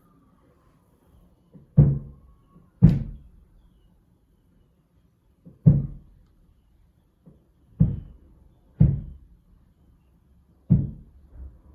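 Heavy thumps coming through a wall, six loud ones at uneven intervals with a couple of fainter knocks between, hard enough to shake the wall.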